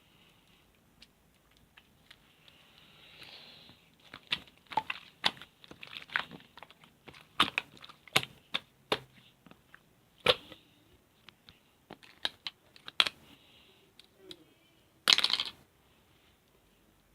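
Slime being played with by hand: a run of sharp sticky clicks and pops, ending with a louder brief crackling burst near the end.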